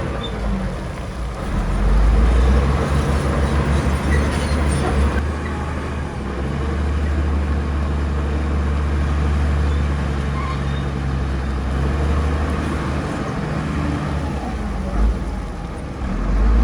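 Heavy diesel engine of earthmoving machinery running steadily, getting louder about two seconds in, with a single short knock near the end.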